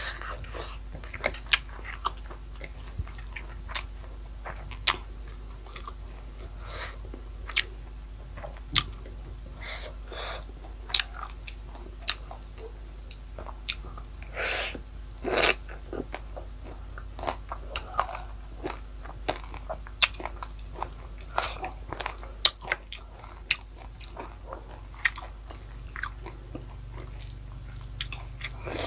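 Eating sounds of a person chewing rice and fried pork: wet mouth clicks, smacks and crunchy chewing, with a louder bite into a slab of fried pork about halfway through.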